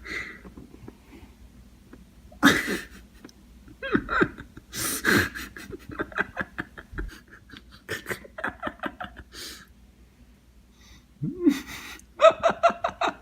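A person laughing and breathing hard, in several runs of quick laughs.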